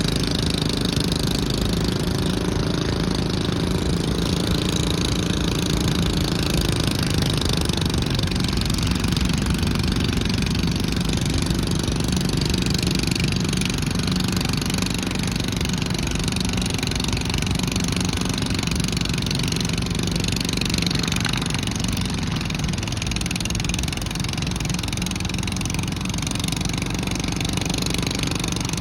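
Garden pulling tractor engine running steadily, its note shifting about seven seconds in.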